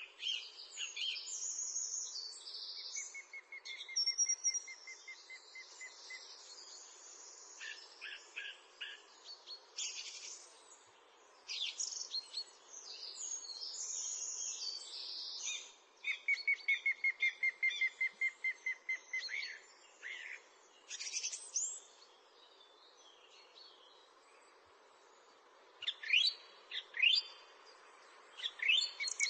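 Several songbirds singing and chirping together, in short high chirps and sweeping notes, with two long trills of rapidly repeated notes.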